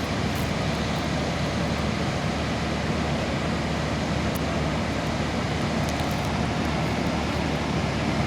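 Steady rush of a waterfall in a flooded river, a constant even roar of falling water.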